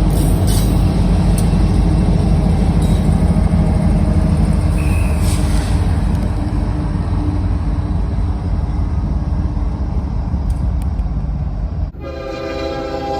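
Freight train rumbling by loudly with a deep steady roar. After a sudden cut about twelve seconds in, a diesel locomotive's air horn sounds, several notes held together as a chord.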